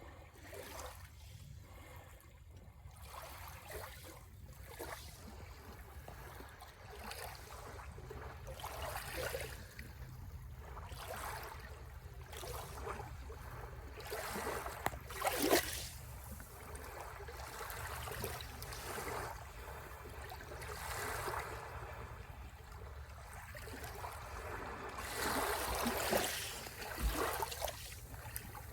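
Sea waves washing onto the shore in uneven swells. One louder wash comes about fifteen seconds in and another near the end, over a steady low rumble.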